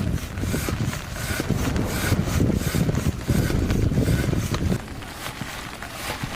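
Wind buffeting the microphone in gusts, over a steady hiss of rain; the gusts ease about five seconds in.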